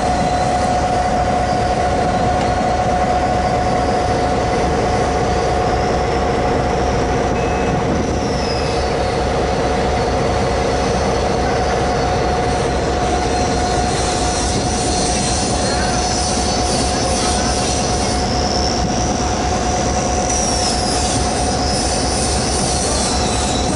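Trains running through a station close by: a loud steady rumble with a constant hum. From about halfway, high wheel squeal that rises and falls in pitch comes in over it.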